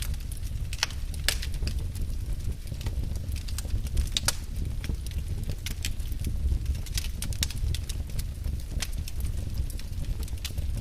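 Wood fire burning in a fireplace: a low steady rumble of flames with frequent irregular sharp crackles and pops from the burning logs.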